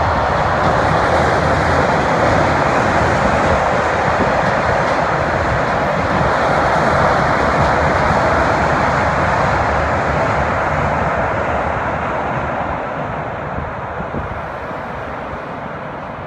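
Train running across a steel railway bridge: a loud, steady rumble of wheels on the bridge that begins to fade about ten seconds in as the train moves away.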